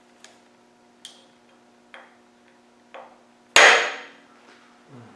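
Light metal clicks about once a second, then one loud, ringing metallic knock near the end, as the timing chain and sprockets are worked onto the engine by hand.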